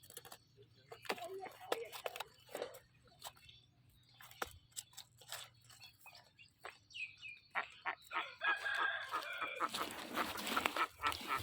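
Chickens clucking, with a rooster crowing in the latter part, over scattered small clicks and knocks.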